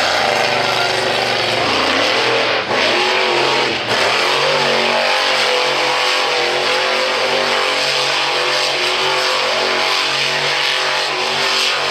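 Monster truck engine running hard at high revs, its pitch sweeping and dipping briefly twice about three and four seconds in, then holding a steady high drone.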